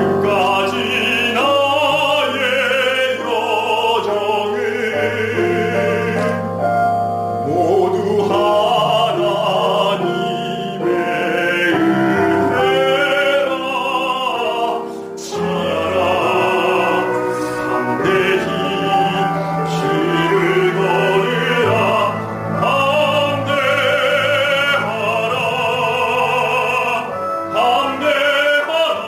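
Operatic singing with a strong vibrato over instrumental accompaniment.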